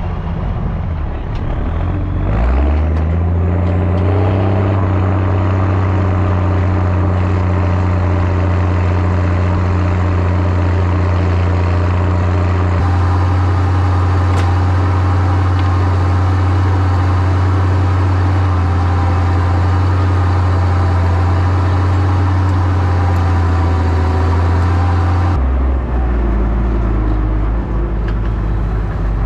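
Zetor ZTS 16145 tractor's turbocharged six-cylinder diesel working hard, pulling a deep cultivator. Its pitch rises about two seconds in and then holds steady under load, changes about 25 seconds in, and climbs again near the end.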